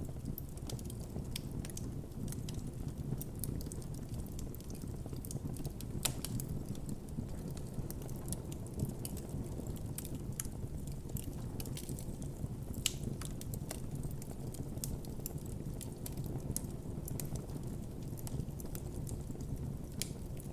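Wood campfire burning with a steady low rumble of flames and irregular crackles and pops from the burning wood, a few sharper pops standing out.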